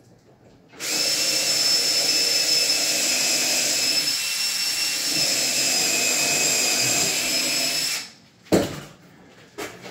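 Power drill running steadily for about seven seconds with a constant high whine, drilling through adjoining cabinets to fasten them together. It stops suddenly, and a single knock follows.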